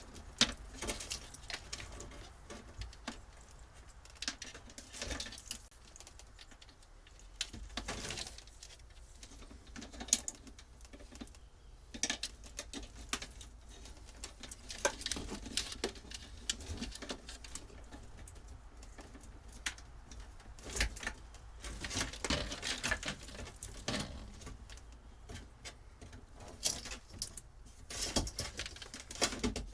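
Hands working old boat wiring loose: irregular clicks, rustles and scrapes of wires and fittings being handled and pulled, with a few sharper knocks.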